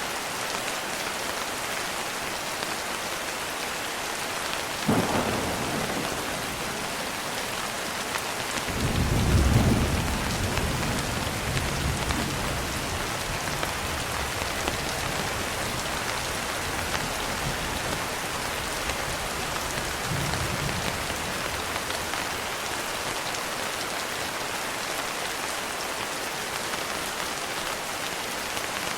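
Steady rain falling, with thunder: a short sharp crack about five seconds in, then a low rolling rumble from about nine seconds that fades over a few seconds, and a fainter rumble near twenty seconds.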